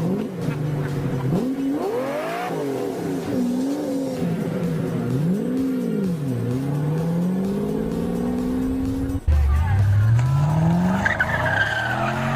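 Car engine revving up and down repeatedly, then, after an abrupt cut about nine seconds in, an engine accelerating hard with tyres squealing near the end.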